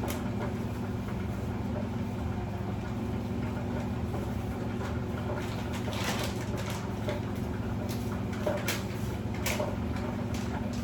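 Fish frying in hot oil: a light sizzle with a few sharp pops, most of them in the second half, over a steady low hum.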